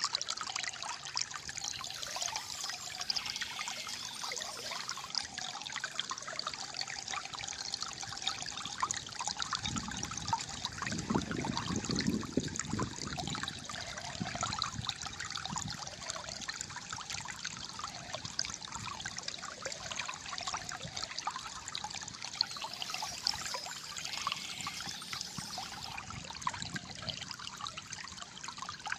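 Shallow flowing water trickling and gurgling steadily, with a deeper burbling swell from about ten to fifteen seconds in.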